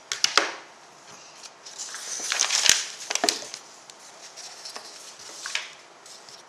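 Handling noises: short rustling, scraping sounds with a few sharp clicks, the loudest cluster about two to three seconds in.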